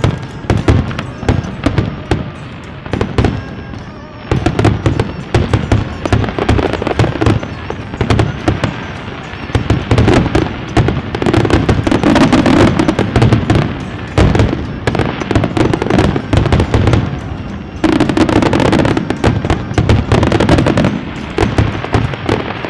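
Fireworks going off in rapid, continuous succession: dense crackling and popping with heavier bangs, growing thicker about four seconds in.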